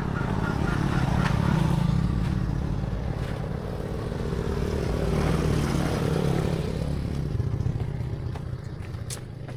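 A motorcycle engine running, its sound swelling twice before fading and cutting off suddenly.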